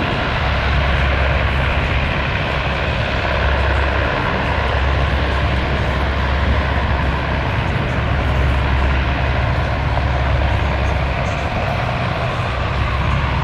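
Military aircraft engines running loud and steady, a deep rumble under a broad, even roar that holds without a break.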